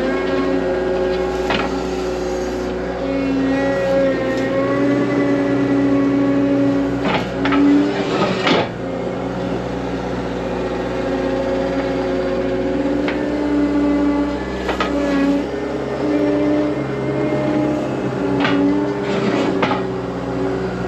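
John Deere tractor engine running steadily under way, its pitch shifting slightly. A few loose metal rattles and clanks come through, the loudest about seven to eight seconds in.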